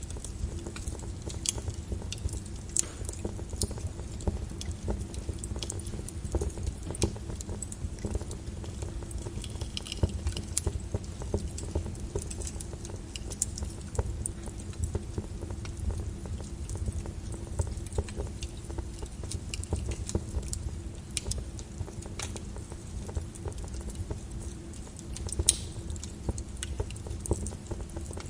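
Lava flow crackling: scattered sharp clicks and clinks, about one a second, over a steady low rumble.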